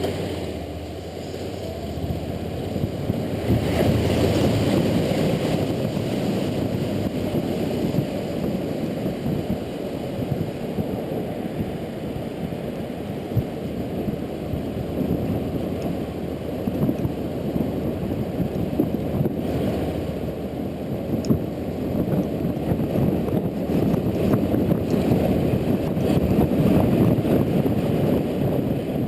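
Wind buffeting the camera microphone on a moving motorcycle, mixed with road noise on a wet road: a muffled, rumbling rush that swells and eases, with no clear engine note above it.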